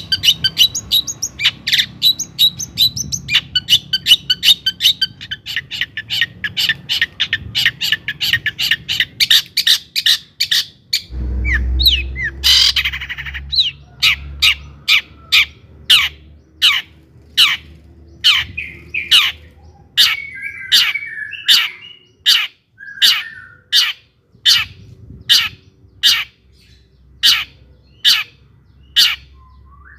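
Long-tailed shrike (cendet) singing: a fast, dense run of sharp chattering notes, broken about halfway by a low rumble and a harsh, rasping squawk, then evenly spaced sharp single notes, about three every two seconds.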